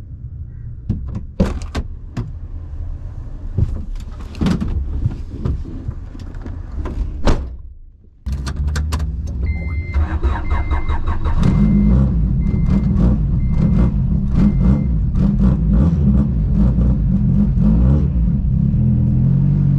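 Clicks and knocks, then about eight seconds in a Honda Civic EG6's B20 engine with Type R head, high cams and high-compression pistons starts and settles into a loud cold idle. A chime beeps six times just after it starts.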